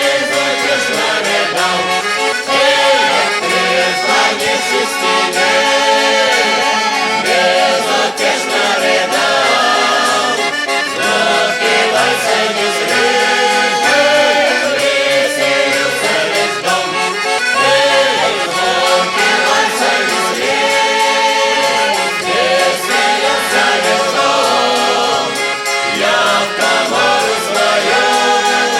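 Russian folk song sung by a mixed choir with accordion accompaniment.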